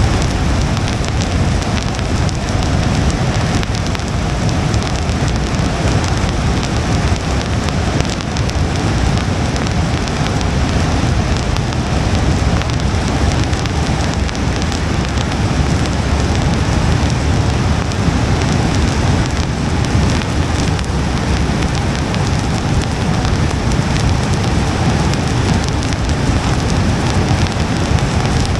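Steady rain pattering on a car's windshield and roof over a steady low rumble of road noise.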